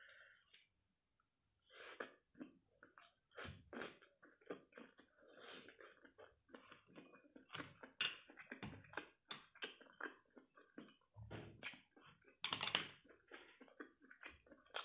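A person eating grilled food off skewers, chewing: a quick, irregular run of small clicks and smacks.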